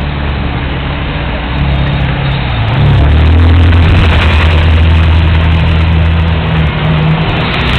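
Sports car engine revved on request: it runs, rises about a second and a half in, then holds louder at higher revs from about three seconds until near the end.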